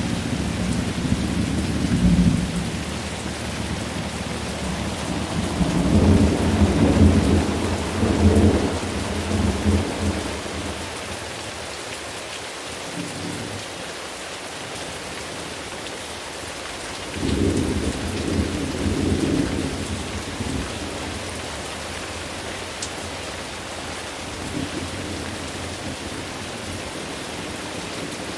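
Steady rain falling, with rolls of thunder rumbling low at the start, again about six seconds in, and once more about seventeen seconds in, quieter in between.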